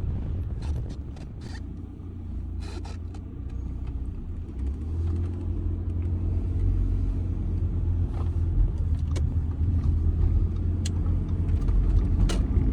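Audi A6 2.0 TDI four-cylinder diesel car driving, a steady low engine and road rumble that grows gradually louder as the car picks up speed, with a few scattered sharp clicks.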